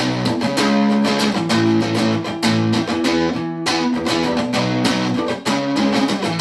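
Guitar strummed in a steady rhythm of chords, played plugged in through amplification and effects, with no singing over it.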